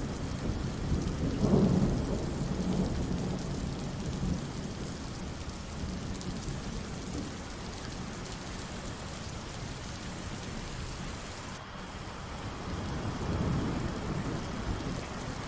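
Steady heavy rain falling, with rolling thunder: a loud low rumble about a second and a half in, and another swelling near the end.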